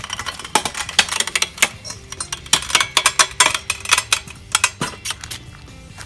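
A geode crunching and cracking under the jaws of a lever-action rock splitter as the handle is pressed down: a rapid, irregular run of sharp cracks and crunches.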